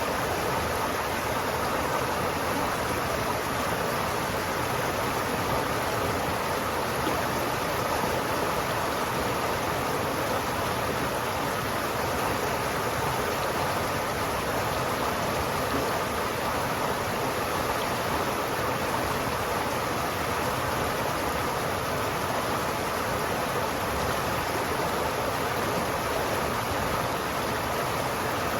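River water flowing steadily: a constant even rush with no breaks.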